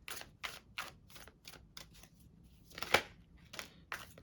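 A deck of tarot cards being shuffled by hand: short papery slaps about three a second, with one sharper snap about three seconds in.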